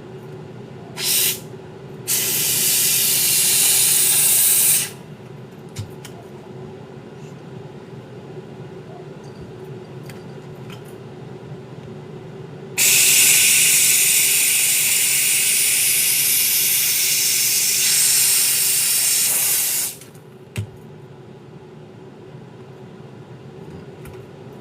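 Handheld garment steamer blasting steam in hissing bursts: a brief puff, then a spurt of about three seconds, then a long jet of about seven seconds, each starting and stopping abruptly.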